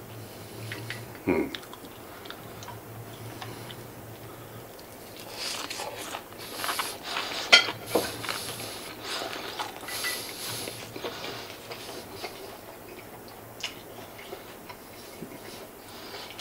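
Close-up chewing of a mouthful of fried chicken karaage, mostly from about five to eleven seconds in. Light clicks of wooden chopsticks against a ceramic bowl and plate come and go.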